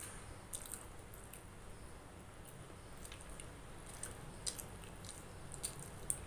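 Close-up eating sounds: a person biting into a tomato slice and chewing, with wet mouth smacks and scattered sharp clicks, the loudest about four and a half and six seconds in.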